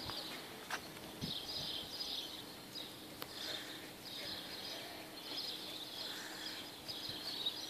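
Small birds chirping in short high bursts, repeating about once a second, over faint outdoor background noise.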